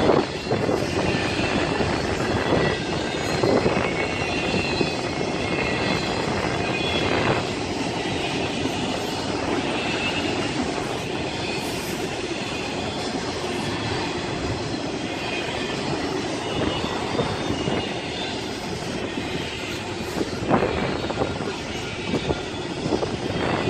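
A train's cars rolling past, with a steady rumble, wheel clatter over the rail joints and wheels squealing on and off.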